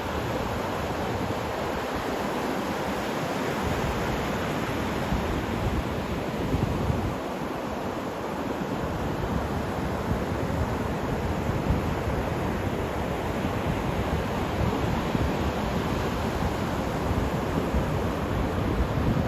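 Steady rush of surf and wind, with wind buffeting the microphone in an uneven low rumble.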